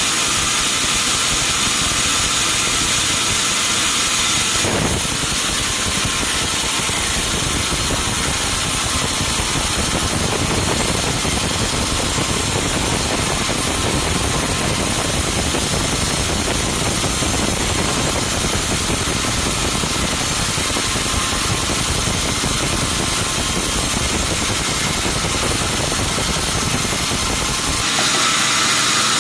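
Sawmill machinery running steadily: a log saw and its engine. The sound shifts abruptly about five seconds in and again near the end.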